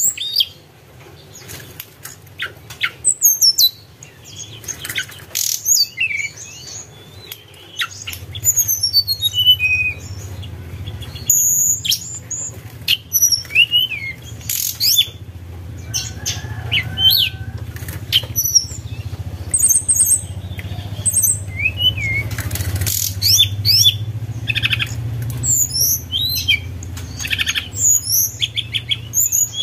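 Tledekan gunung songbird in full song: repeated quick whistled phrases of rising and falling notes, mixed with sharp clicks. A low steady hum joins about a quarter of the way in.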